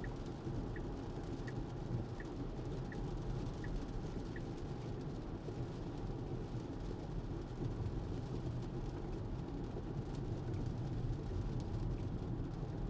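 Tesla rolling on a wet road: a steady rumble and hiss of tyre and road noise. Over the first four seconds or so, the turn-signal indicator ticks about one and a half times a second, then stops.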